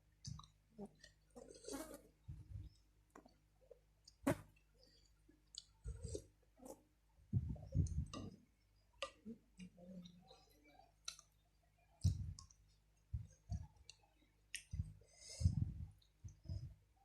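Close-up eating sounds: chewing and slurping of boiled instant noodles, with many irregular wet mouth clicks and light knocks.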